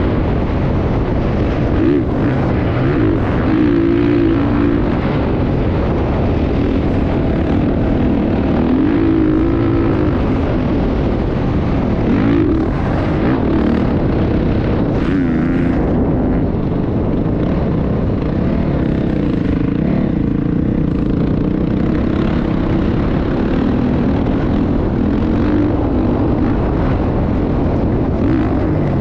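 Motocross bike engine running hard, its pitch rising and falling again and again as the throttle opens and closes, over a constant low rumble.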